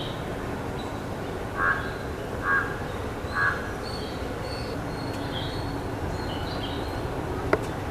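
A crow cawing three times, each caw short and rough and a little under a second apart, while small birds chirp faintly over a steady outdoor background. A single sharp click comes near the end.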